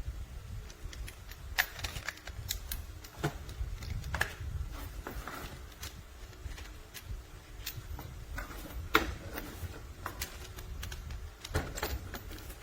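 Irregular light clicks and taps, a few each second, with louder ones about a second and a half in and near nine seconds, over a low rumble.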